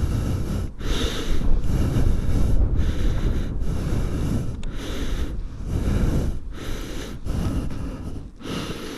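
Heavy, rhythmic breathing close to the microphone, about one breath a second, each one a noisy rush of air with short gaps between.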